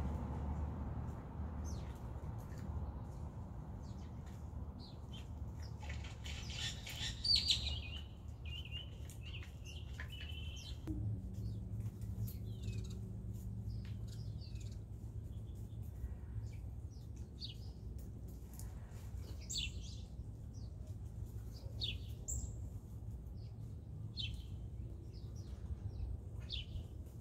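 Birds calling: short, downward-sliding chirps scattered throughout, with one louder, harsh call about seven seconds in, followed briefly by a held whistled note.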